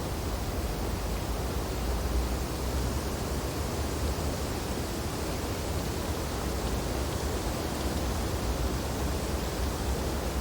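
Steady wind blowing through snowy tree branches: a constant rushing noise with a deep rumble underneath, rising and falling only slightly.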